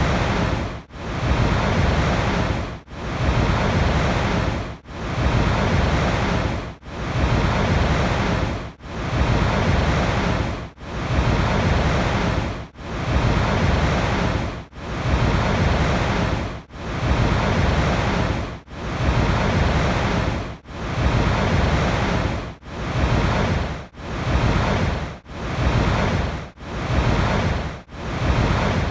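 Steady rushing water, broken by brief regular dips in level about every two seconds that come faster, about once a second, toward the end.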